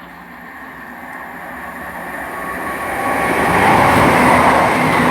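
Class 168 diesel multiple unit approaching and passing through the station without stopping, growing steadily louder and at its loudest from about three and a half seconds in.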